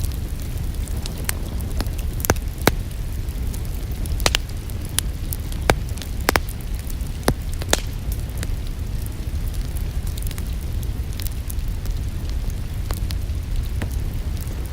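Wood fire in a fireplace crackling, with scattered sharp pops and snaps, busiest in the first half, over a steady low rumble.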